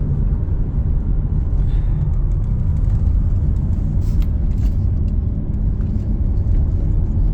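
Steady low rumble of a car on the move: road and engine noise, with a few faint ticks.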